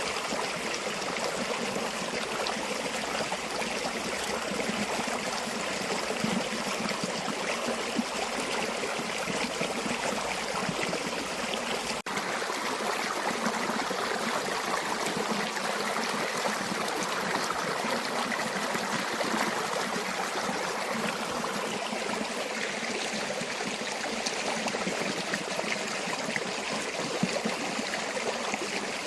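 River or stream water flowing steadily with a continuous rushing, trickling sound, broken only by a momentary dropout about twelve seconds in.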